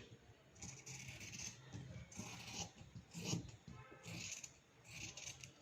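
Fabric scissors cutting through cloth: a series of short, faint, scratchy snips.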